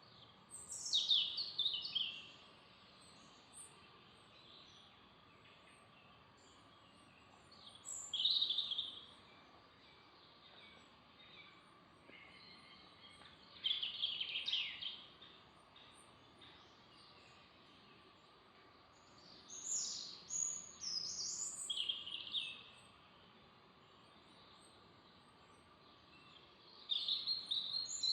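A songbird singing short, high-pitched phrases about every six seconds, five in all, over a faint steady background hiss.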